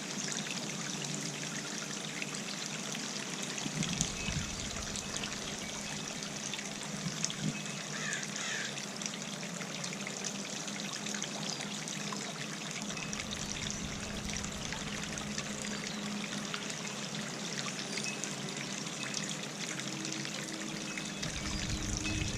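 Garden fountain trickling and splashing steadily, with gusts of wind rumbling on the microphone several times.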